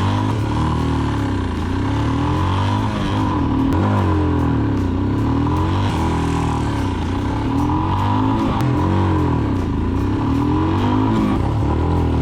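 Royal Enfield Himalayan's 411 cc single-cylinder engine running through a PoweRage slip-on exhaust, the motorcycle under way, with an exhaust note that swells and falls about every two seconds.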